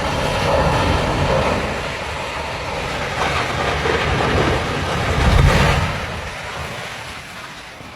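Heavy vehicle rumbling by: a loud, dense rumble and noise that swells to its loudest about five and a half seconds in, then fades away.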